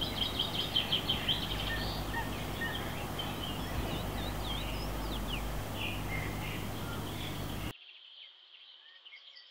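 Small songbirds chirping and twittering over a steady outdoor background hiss. About three-quarters of the way through, the hiss cuts off abruptly, leaving fainter birdsong.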